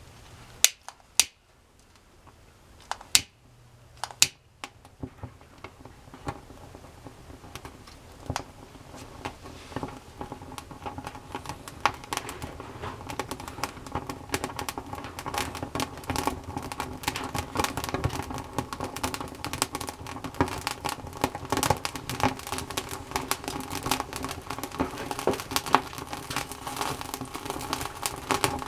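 Wood campfire catching. A few sharp snaps in the first seconds are followed by crackling and popping that grows denser and louder as the fire takes hold.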